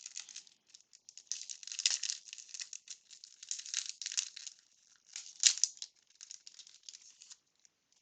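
Wax-paper wrapper of a 1992 Bowman baseball card pack crinkling as it is opened and pulled off, a run of uneven crackles with a few louder bursts that stops shortly before the end.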